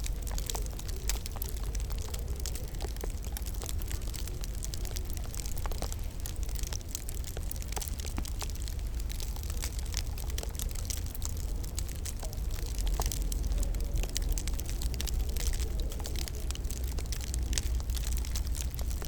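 Wood fire crackling in a fireplace: a steady run of sharp, irregular pops and snaps over a constant low rumble.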